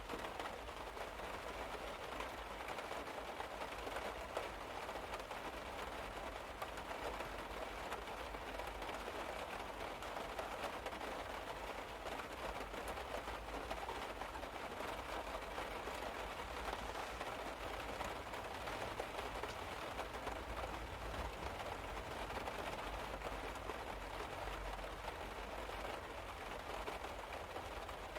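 Steady rain falling on a car roof, heard from inside the car: a dense, even run of fine drop taps with a low rumble underneath.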